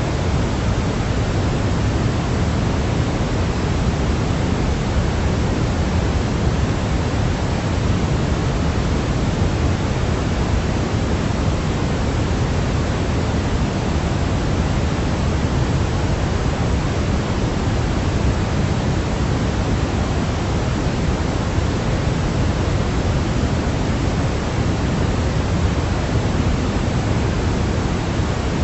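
Steady white noise for baby sleep: an unchanging hiss, fuller in the low end than in the highs, with no breaks or variation.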